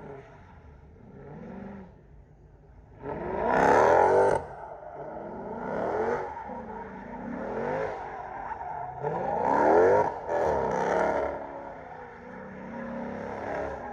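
Car engines revving several times, each rev rising in pitch and falling back. The loudest revs come about three seconds in and again near ten seconds.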